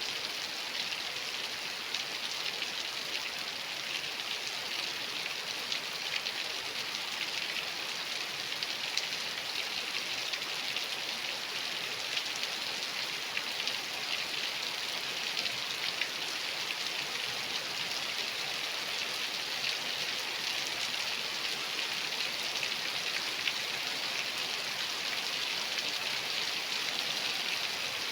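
Steady rainfall, an even hiss of rain with many small drop ticks pattering on surfaces.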